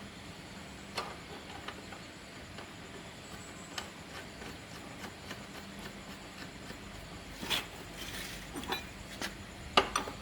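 Scattered light clicks and knocks of small hard objects being handled, with a few louder knocks in the second half, over a faint steady hum.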